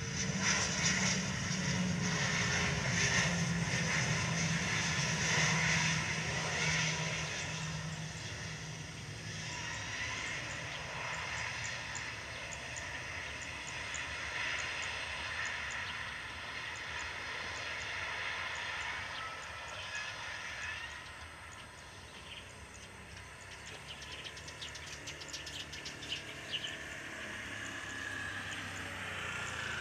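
Bombardier Challenger business jet's turbofan engines, loud for the first several seconds and then dying away to a lower steady rumble.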